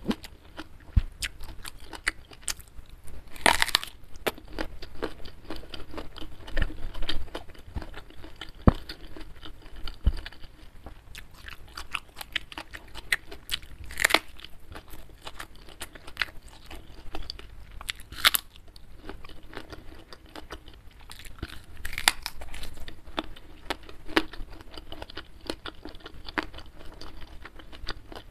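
Close-miked chewing and crunching of food, with several sharp crunches. About halfway through comes a crisp bite into a raw young green eggplant.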